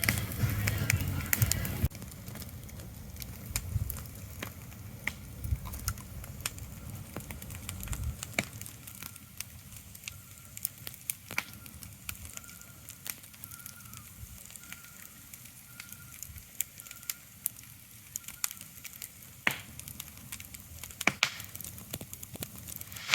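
Soft steady hiss scattered with irregular sharp crackles and pops, with a louder low rumble in the first two seconds.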